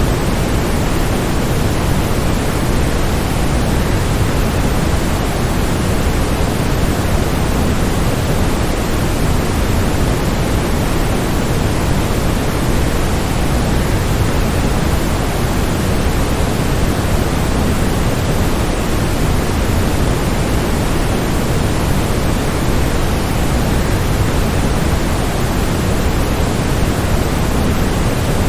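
Waterfall's falling water: a loud, steady, unchanging rush, fullest in the low end.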